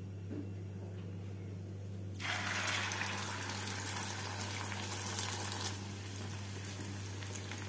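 Stuffed Moghlai paratha frying in hot oil in a frying pan: a sudden sizzle starts about two seconds in as the paratha goes into the oil, loudest for a few seconds, then settles to a quieter steady frying hiss.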